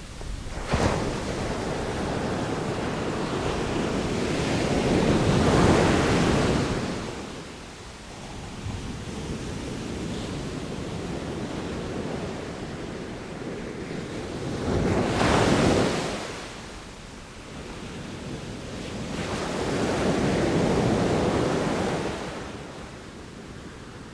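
Sea waves breaking and washing onto the shore: one breaks sharply about a second in, followed by three long surges that build and fall away.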